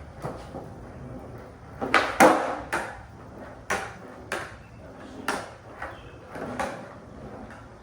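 Skateboard knocking and clacking: a run of about eight sharp hits, the loudest a double knock about two seconds in.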